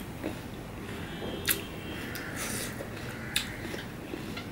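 Close-miked mouth sounds of a person chewing juicy pomelo vorta, with three sharp wet clicks spread through it.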